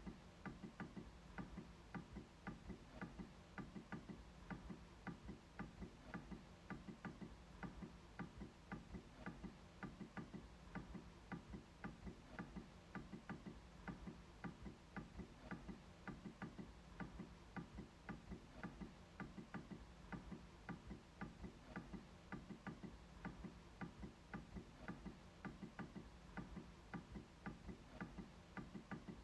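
MacBook trackpad being clicked over and over, faint, even clicks at about three a second.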